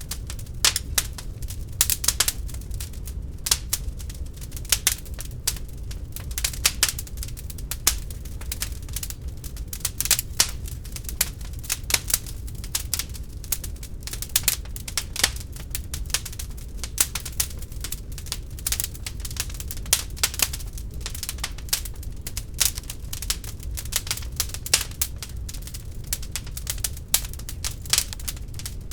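Wood fire crackling in an open fireplace: dense, irregular sharp pops and snaps over a steady low rumble of the burning.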